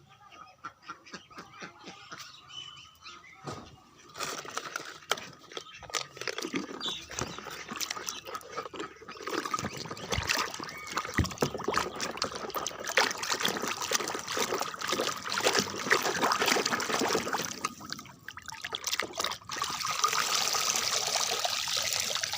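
Water splashing and trickling as a plastic toy vehicle is washed by hand, with many small knocks and rubbing sounds. The sounds start about four seconds in, and near the end the water settles into a steadier rush.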